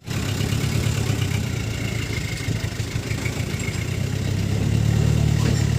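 Diesel truck engine running steadily, its low rumble growing louder about four and a half seconds in.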